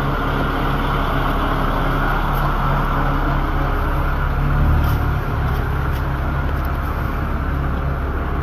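Engine of a boom crane truck running steadily while it hoists a rooftop HVAC condenser, a low, even drone that swells briefly about halfway through.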